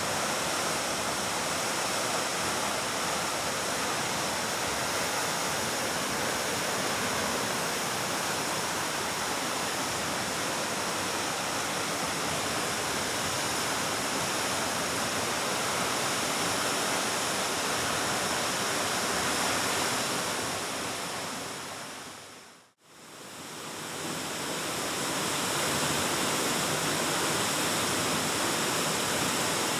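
Waterfall rushing in a steady, even roar of falling water. About three-quarters of the way through, the sound fades smoothly down to silence and then back up again.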